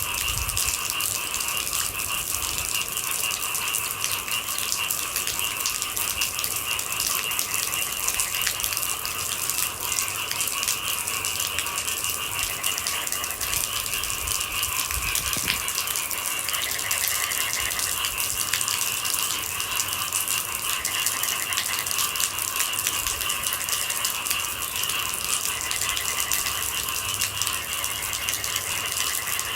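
Steady rain pattering, a dense stream of fine drop ticks, with brief low rumbles near the start and about halfway through.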